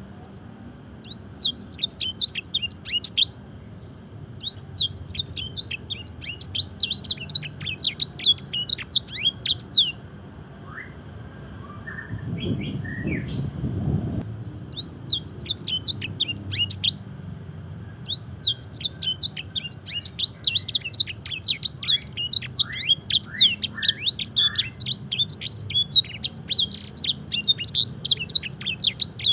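Canary singing long trills of fast, repeated, high sweeping notes in several bursts, the last one running on almost unbroken. This is the canary's blackthroat-style song filling. There is a short break near the middle with a few lower notes and a soft low rumble.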